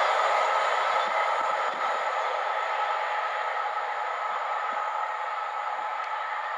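Train passing on the main line: a steady rushing rail noise with some high steady tones, slowly fading as it draws away.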